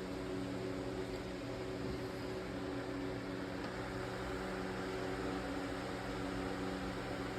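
Steady machine hum, a constant low drone with several fixed tones under an even hiss, like a running fan or motor.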